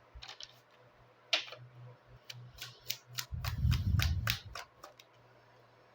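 Cigano oracle cards being handled and drawn from the deck: a run of light clicks and snaps, with a brief low rubbing rumble about halfway through.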